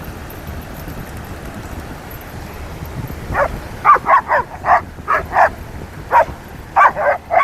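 A dog barking in a quick series of short barks, starting about three seconds in, over steady background noise.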